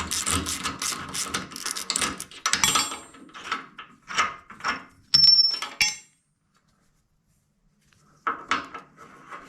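Hand tools on steel: a ratchet wrench clicking rapidly, then scattered metal clanks, one ringing briefly with a high tone. The sound cuts out for about two seconds, then a few more knocks.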